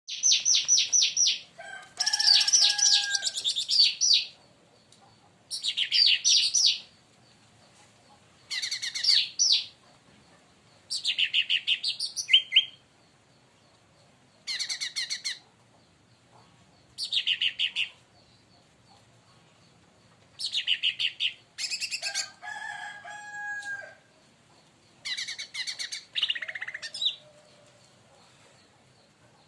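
Leafbird (cucak ranting / cica daun) singing in loud bursts of rapid, high chirping phrases, about a dozen bouts with short pauses between them. Twice a lower, drawn-out call is mixed in.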